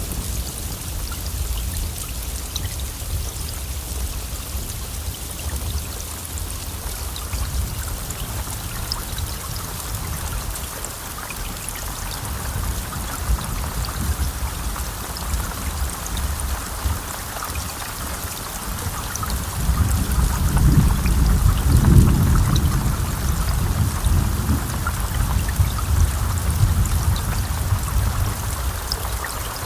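Steady heavy rain with close drops pattering. About two-thirds of the way through, a low thunder rumble swells, peaks and rolls away over several seconds.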